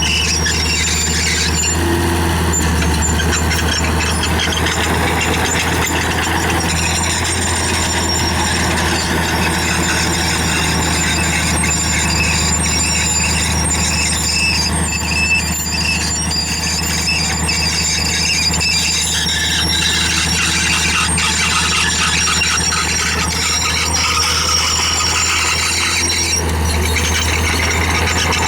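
Crawler bulldozer working: its diesel engine runs steadily underneath while its steel tracks give off a continuous high metallic squealing that wavers in pitch.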